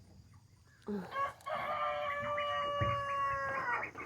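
A rooster crowing: after a couple of short notes about a second in, one long, steady call of about two and a half seconds.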